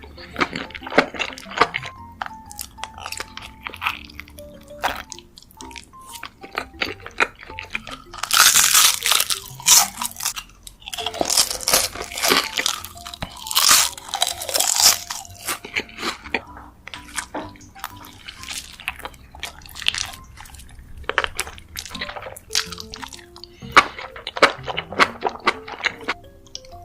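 Close-miked eating sounds: crunchy bites and chewing in crackling bursts, loudest in two long stretches near the middle, over soft background music.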